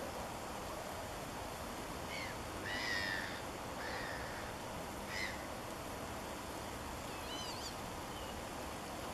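A few short, harsh bird calls spaced over several seconds, with a thinner, higher call near the end, over a steady background hiss.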